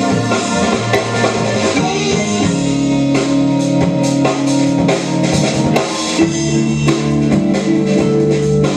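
A band playing an instrumental passage on guitar and drum kit. Held chords change twice, with steady drum hits underneath.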